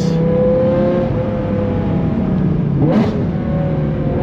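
BMW S85 5.0-litre V10 engine in an E46 M3, pulling hard under full acceleration, heard from inside the car. About three seconds in the sound breaks briefly for a gear change, and the revs then start climbing again.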